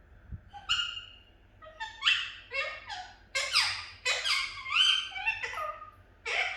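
Pet budgerigar chattering: a fast run of short warbling chirps and squawks that slide up and down in pitch, starting about half a second in.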